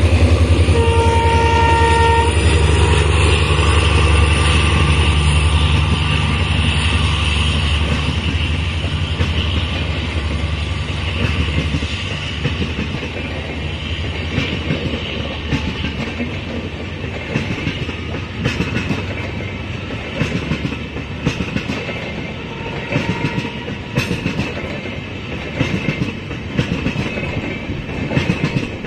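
Express train passing close by. The generator car's deep diesel drone fades over the first dozen seconds, and a short horn blast of about a second and a half comes about a second in. After that the wheels of the passenger coaches clatter rhythmically over the rail joints as they roll by.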